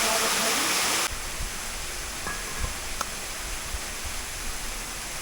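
Waterfall rushing, loud and close at first, then dropping abruptly about a second in to a quieter, steady rush of falling water with scattered low bumps.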